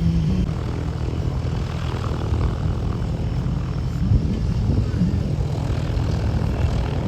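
Light single-engine piston propeller plane's engine running steadily.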